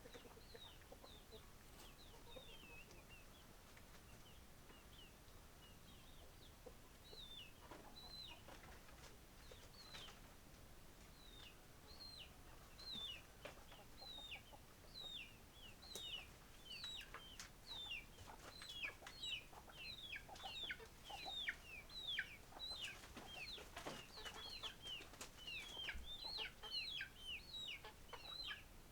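Chickens calling faintly: many short, high calls, each falling in pitch, scattered at first and coming thick and fast through the second half.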